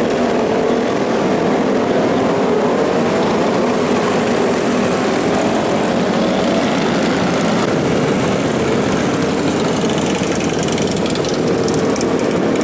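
Superbike engines running, their pitch rising and falling gently.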